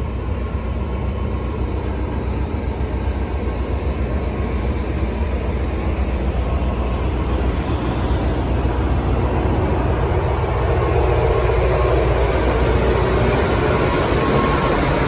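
Train rumbling with a heavy, steady low drone that grows slowly louder.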